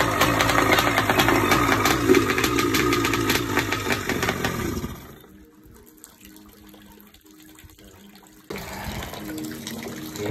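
Kawasaki X2 650 two-stroke engine running fast and loud, then cut off about five seconds in. A few seconds later a steady rush of running water, like a hose, starts up.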